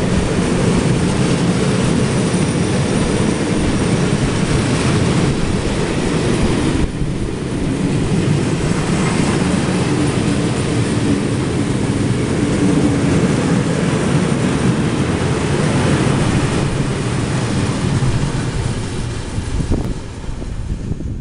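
Freight train of tank wagons rolling past close by: a loud, steady rumble of steel wheels on rail. It grows quieter near the end as the last wagons go by.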